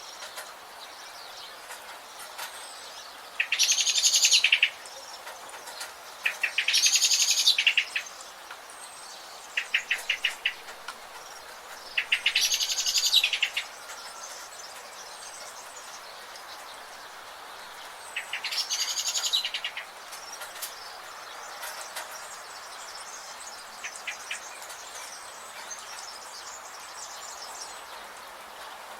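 A songbird singing loud, rapid trilled phrases of about a second each, five times in the first twenty seconds, over a steady hiss of forest ambience with faint chirps.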